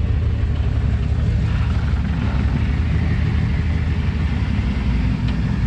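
Ford 460 big-block V8 of an F350 pickup at a 900 RPM idle, pulling a heavy boat trailer with no throttle applied: a steady, even low rumble. It shows the low-end pull of the engine with its throttle body.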